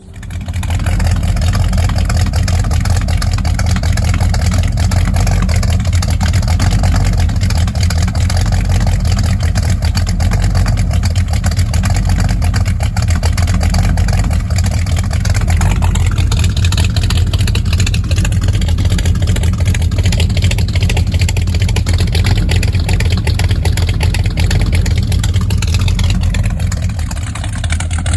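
Pontiac 389 V8 with a cross-ram intake running loud through 2.5-inch dual exhaust with 24-inch glass pack mufflers. It comes in abruptly at the start, and the engine speed rises and falls somewhat in the second half.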